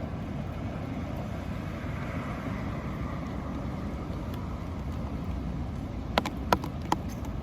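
Steady outdoor road-traffic noise, with a vehicle passing and fading about two to four seconds in. Near the end come three sharp clicks or knocks in quick succession.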